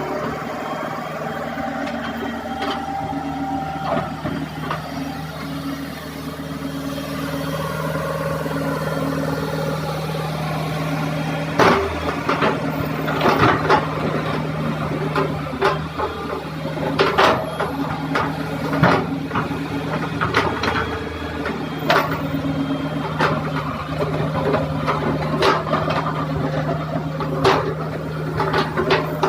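Hitachi excavator's diesel engine running steadily. From about twelve seconds in, sharp knocks and clatter come at irregular intervals over the engine.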